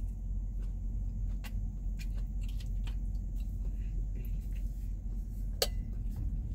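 A person chewing food, with small clicks of a plastic fork and a sharper click about five and a half seconds in, over a steady low rumble inside a truck cab.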